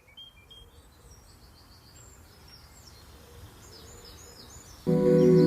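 Birdsong ambience: many short bird chirps and calls over a faint background hiss, slowly growing louder. Near the end a sustained, many-toned ambient music chord comes in suddenly and much louder.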